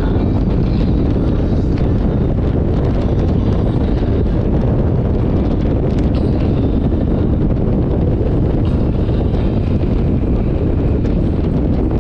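Steady wind rush buffeting the microphone on a moving motorcycle, with road noise underneath.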